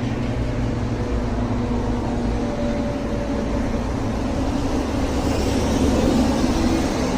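An engine running steadily, with a slight swell in level about five seconds in.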